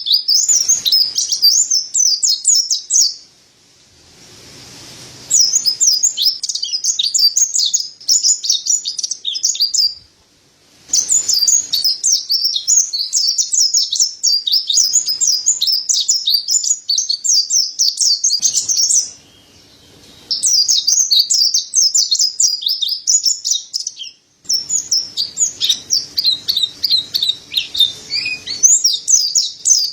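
Mountain white-eye (white-breasted white-eye) singing long runs of rapid, high twittering chirps, broken by several short pauses.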